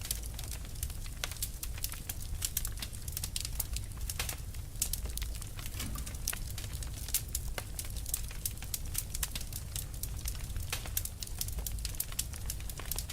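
Burning fire crackling: many quick, irregular snaps and pops over a steady low rumble of flame.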